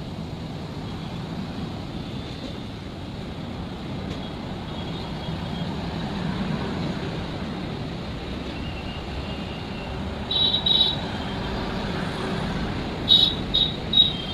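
A running train with a steady, even rumble. A few short, high-pitched sounds cut in about ten seconds in and again near the end.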